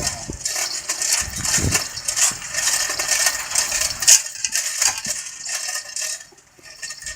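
Irregular metallic rattling and clinking of heavy metal parts being shifted, with a sharper knock about four seconds in.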